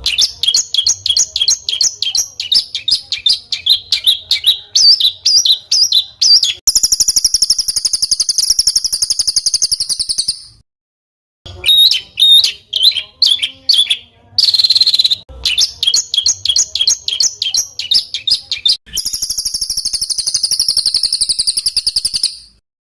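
Songbird song from a masteran training recording: fast runs of sharp chirps, about five a second, alternating with long harsh buzzing trills of three to four seconds each, with short dead-silent gaps between phrases.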